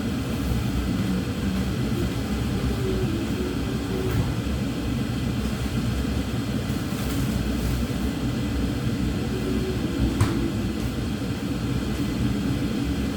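Steady low rumble with no speech, and a single short click about ten seconds in.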